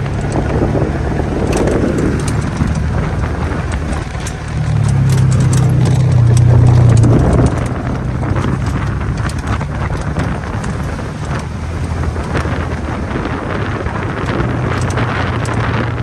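Motor vehicle engine running steadily as it drives, louder for a few seconds near the middle, with scattered clicks and knocks over the top.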